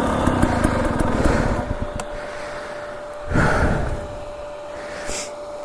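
Dirt bike engine running, easing off after about a second and a half to a much quieter level, with a faint steady whine holding on after that.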